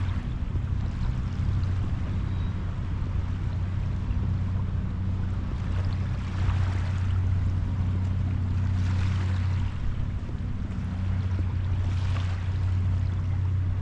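Small waves washing onto the beach a few times, each a soft swell of hiss, over the steady low drone of a boat engine running offshore.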